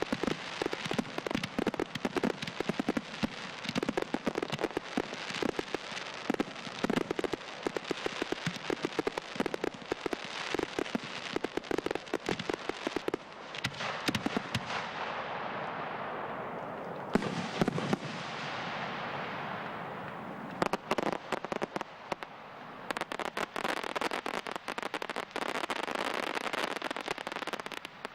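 Frontal firework battery firing: many rapid bangs and crackles. Midway they give way to a stretch of steady crackling hiss, then dense bangs start again near the end.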